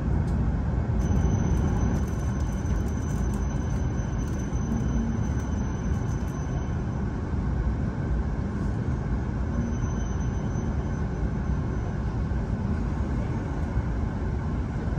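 Cabin noise of an E7-series Hokuriku Shinkansen train pulling into an underground station platform: a steady low rumble, with a faint thin high tone over the first several seconds.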